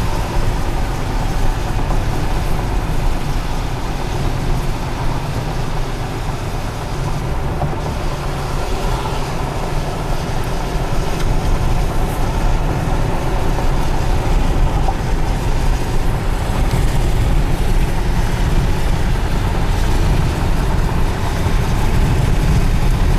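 Steady road and wind noise of a car driving at highway speed, heard from inside the car.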